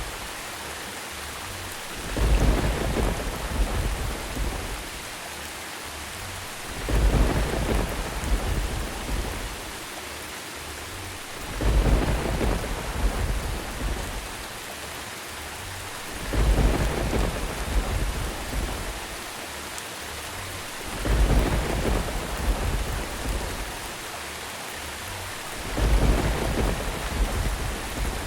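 Steady rain with rolling thunder: a low rumble swells about every four to five seconds, six times, each dying away over a couple of seconds beneath the constant hiss of the rain.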